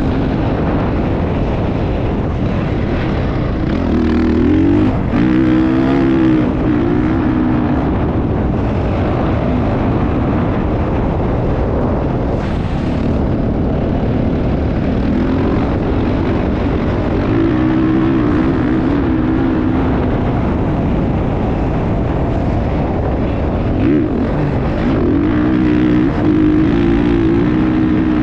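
Motocross motorcycle engines running and revving, the engine note rising and holding in several stretches over a steady rush of noise.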